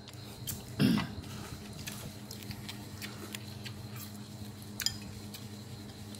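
Scattered light clicks and clinks of chopsticks and tableware during a meal, over a steady low hum, with one louder short sound about a second in.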